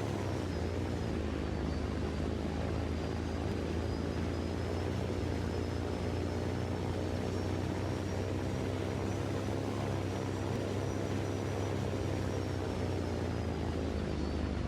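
A steady engine drone with a thin high whine above it, holding an even pitch throughout.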